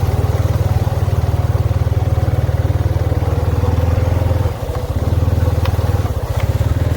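The Honda's engine running steadily while being ridden, its low pulsing note dipping briefly about four and a half seconds in before picking up again, with a couple of light clicks near the end.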